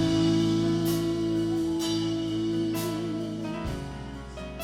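Worship band playing between sung lines: sustained keyboard chords with light cymbal strokes about once a second, easing off near the end.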